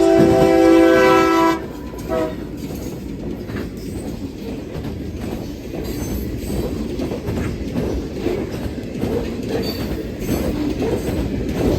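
CSX locomotive's air horn sounding a long chord blast that cuts off about a second and a half in, followed by a short toot. Then the train rolls past, a steady rumble with wheels clacking over the rail joints.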